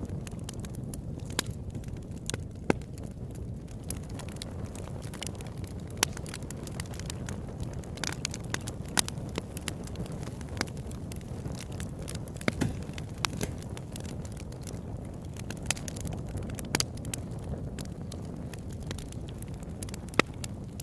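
Campfire burning: a steady low rush of flames with irregular sharp crackles and pops, a few of them louder.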